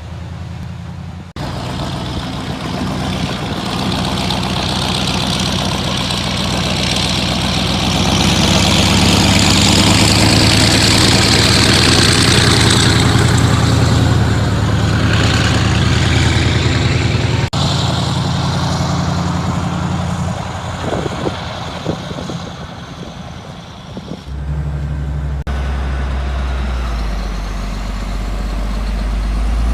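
Heavy diesel engine running steadily, with a loud hiss that swells and fades in the middle. The sound changes abruptly several times, as between separate takes.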